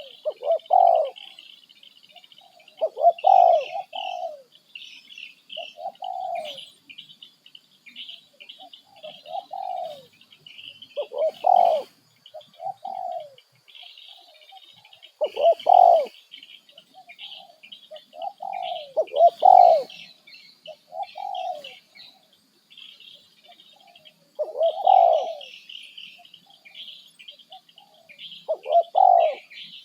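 Birds calling: low, arched cooing-type calls in short phrases every few seconds, over steady high-pitched chirping.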